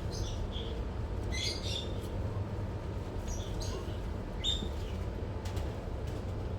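Small birds giving short, high chirps at irregular intervals over a steady low hum.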